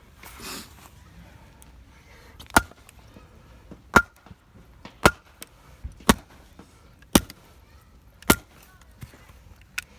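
Six sharp, loud blows, about one a second, each with a short metallic ring, as of a tool striking wood or a stake.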